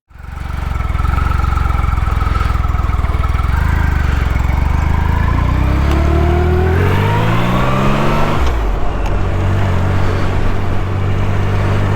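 Motorcycle engine running under way, its pitch rising steadily for a few seconds as the bike accelerates, then dropping sharply at an upshift about eight and a half seconds in and running steady after.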